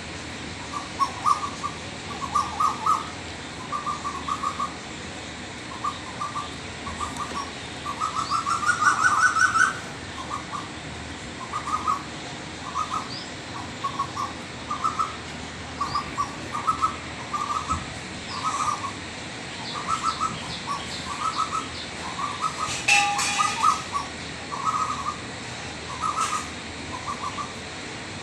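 Bird calls: short, clear notes in quick groups of two to four, repeated about once a second over a steady hiss. A rising run of notes comes about a third of the way through, and a louder, fuller call later on.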